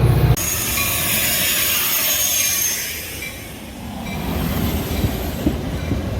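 Metra commuter train rolling on the rails with thin, high-pitched wheel squeal and hiss, dipping about three seconds in and then building again. Just after the start a loud low rumble cuts off abruptly.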